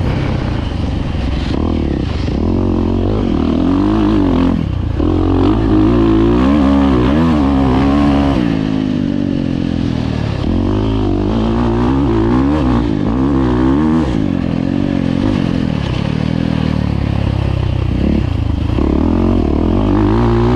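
Dirt bike engines revving up and down over and over as the bikes ride the track, with pitch rising and falling every second or two.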